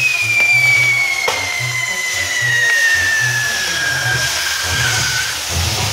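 Castillo firework tower burning: a steady hiss of spraying sparks with one long whistle that slowly falls in pitch over about five seconds, and a couple of sharp pops. Bass notes of music play underneath.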